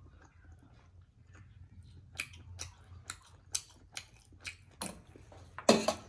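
Close-miked chewing of a pork momo: wet mouth clicks and smacks, about two a second. Near the end comes a louder clatter of a metal spoon against a metal plate.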